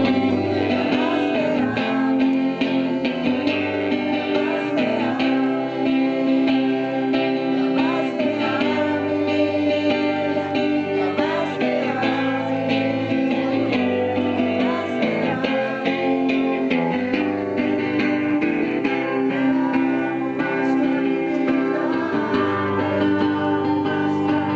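A Christian praise song: guitar playing with singing.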